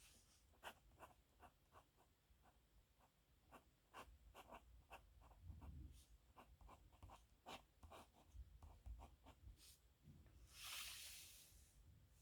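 Pen scratching faintly on paper in many short strokes, with one longer stroke near the end.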